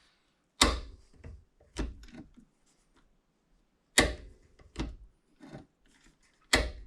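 Locking pliers (vise grips) pressing a bushing into a pickup's door hinge: five sharp, irregularly spaced clicks and knocks, with fainter ticks between them.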